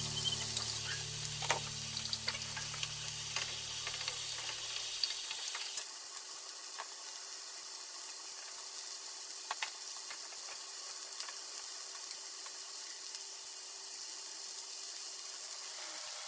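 Breaded chicken strips sizzling steadily in oil in a frying pan, with a spoon clicking against a saucepan as a sauce is stirred in the first few seconds. A low hum stops about five seconds in.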